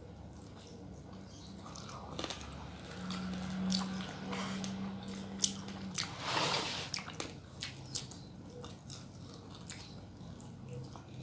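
A person eating close to the microphone: biting and chewing, with many small clicks and a louder, noisier bite or slurp about six seconds in.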